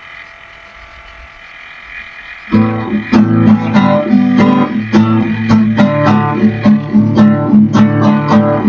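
Faint steady hum, then about two and a half seconds in a guitar starts, picked and strummed in a steady rhythm: the introduction to a gospel song.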